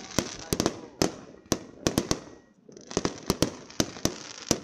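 Fireworks going off in a rapid run of sharp bangs and crackles, several a second. They thin out to a brief lull about halfway, then start up again.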